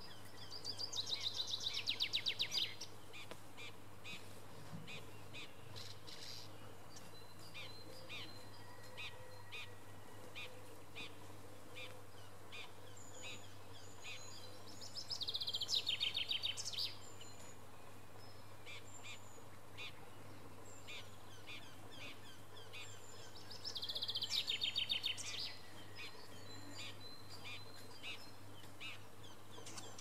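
A songbird singing three loud phrases about ten seconds apart, each a rapid trill that falls in pitch over about two seconds, with short high chirps scattered between them.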